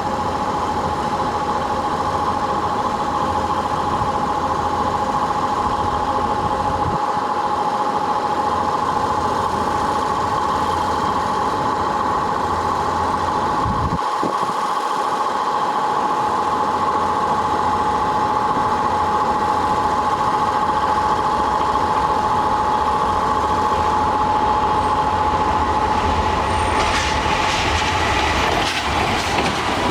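Kintetsu electric train at the station, with a steady whine running throughout. Near the end, wheels clatter over the rail joints as a train moves through.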